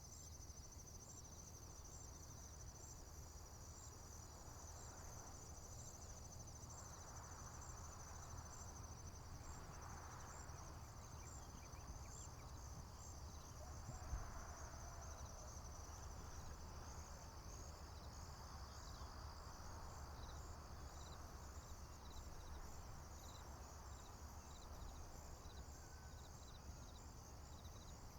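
Crickets chirping in a steady, high-pitched pulsing chorus, faint over a low rumble, with one brief soft thump about halfway through.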